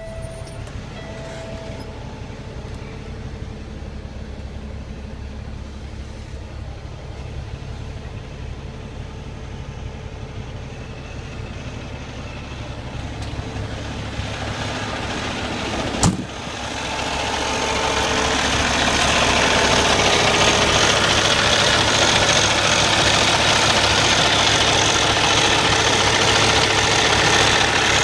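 Cummins ISX inline-six diesel idling steadily, at first fairly quiet. There is one sharp knock about 16 seconds in, and from about 18 seconds on the engine is much louder and fuller.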